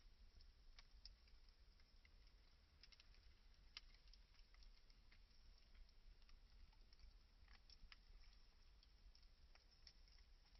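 Campfire faintly crackling: scattered, irregular small pops and clicks over a low rumble.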